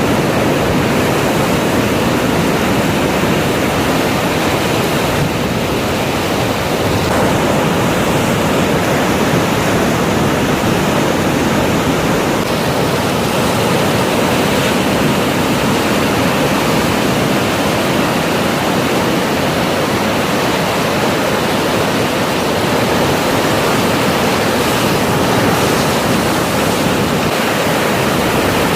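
Ocean surf breaking, a steady loud wash of wave noise.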